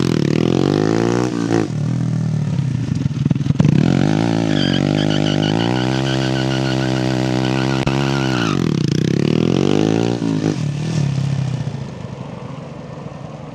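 Honda MSX (Grom) 125's single-cylinder engine through an aftermarket exhaust, revving up and down. It holds at high revs for a couple of seconds, then drops back and fades near the end.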